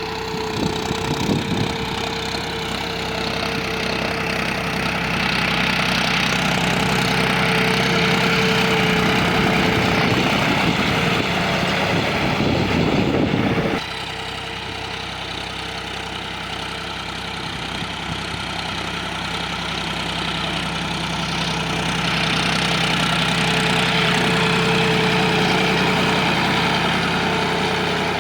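A John Deere tractor's engine running steadily. It grows louder, drops suddenly about 14 seconds in, then slowly grows louder again.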